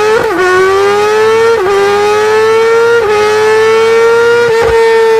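Superbike engine screaming near the top of its rev range under hard acceleration. Four quick upshifts are heard: at each the pitch dips briefly and then climbs again, about every second and a half.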